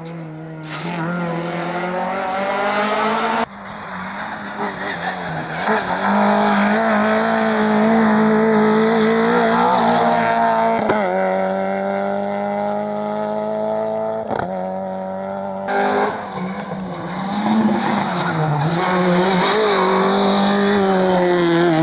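Rally cars' engines revving hard, pitch climbing and dropping through gear changes, with tyre squeal. The sound changes abruptly twice, and there are a couple of sharp cracks partway through.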